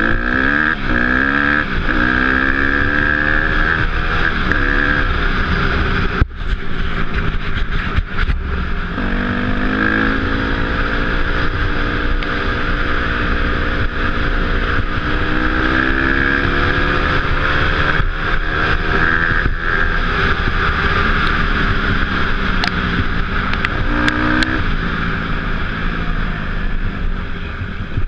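Off-road motorcycle engine being ridden, its pitch rising and falling over and over as the throttle is opened and closed, with wind rushing over the camera microphone. A couple of sharp knocks come about six and eight seconds in.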